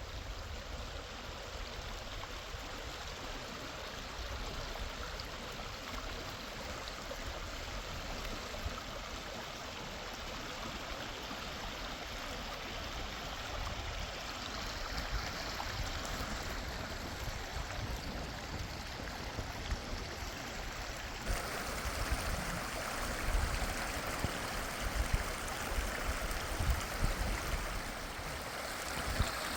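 Rushing river water, a steady wash of noise. About two-thirds of the way through it becomes louder and brighter, with some low bumps.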